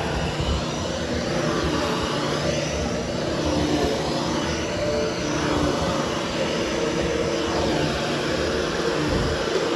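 13-inch Hoover Hushtone commercial upright vacuum running steadily as it grooms a carpet, its motor giving an even whine.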